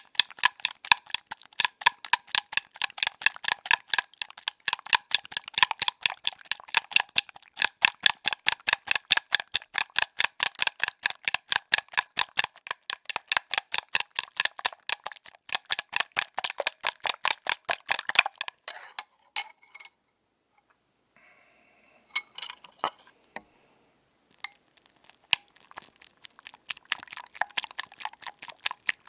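Eggs being beaten in a bowl: a fast, even run of clinking strikes against the bowl, about five a second, each with a short ring. The beating stops about eighteen seconds in, leaving a brief hush and then a few scattered taps and clinks.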